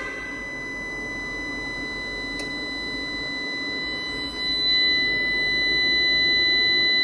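A SAKO 6 kW inverter booting into its error 51 fault, giving a steady high-pitched electronic tone over a low hum. There is a single sharp click about two and a half seconds in, and the sound gets louder a couple of seconds later.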